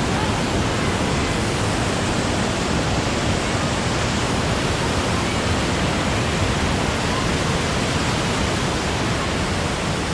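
Cullasaja Falls: water pouring over the rocks at the base of the falls, a steady, unbroken rush.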